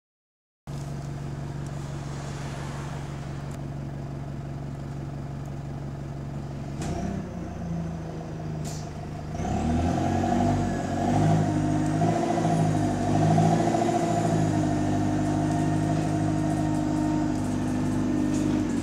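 Bus engine running steadily at first, then pulling away louder from about halfway through, its pitch rising and falling as it drives.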